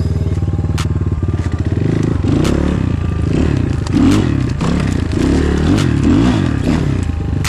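Enduro motorcycle engine running, steady for the first couple of seconds and then revving up and down repeatedly as it is ridden over rough ground, with a few sharp clicks and knocks.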